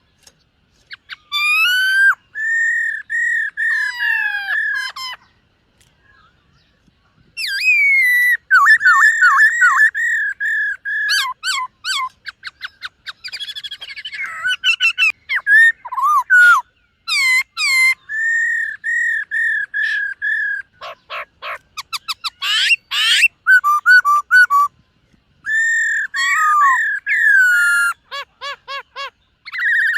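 Black-throated laughingthrush singing: loud, clear whistled phrases, some with rapid repeated notes and trills, broken by short pauses.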